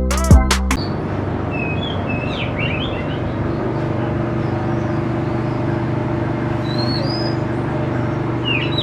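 The tail of a music track cuts off within the first second. After that, small songbirds give short, scattered chirps over a steady low hum.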